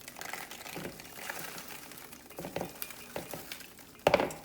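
Popped popcorn being poured from its bag into a bowl: a dry rustle and patter of popcorn with crinkling of the bag, and one brief louder sound near the end.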